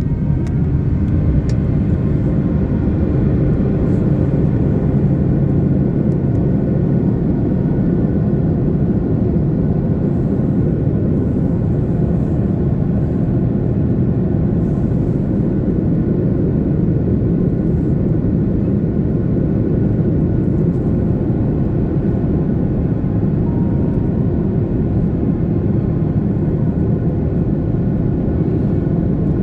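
Steady cabin drone of an Airbus A330-300 with GE CF6-80 engines, a low, even rumble of engine and airflow noise heard from inside the cabin.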